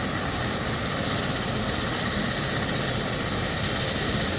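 A medical helicopter idling on a rooftop helipad: a steady, even turbine and rotor running noise.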